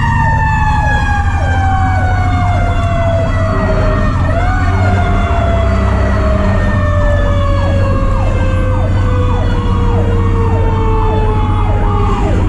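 Fire truck sirens: a Federal Q mechanical siren winding down in one long, slowly falling howl, spun up briefly again about four seconds in. Under it, an electronic siren yelps about twice a second over the truck engine's low, steady rumble.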